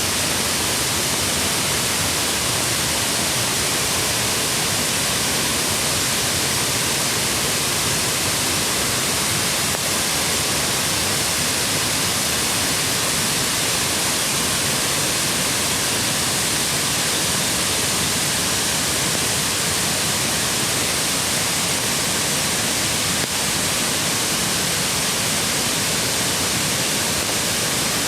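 Mountain creek flowing: a steady, unbroken rush of water.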